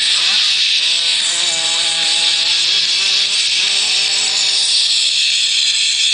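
Motocross bike engines revving under race load, a buzzy pitch that climbs at the start, holds, then drops and climbs again as the riders shift gears, over a loud steady hiss.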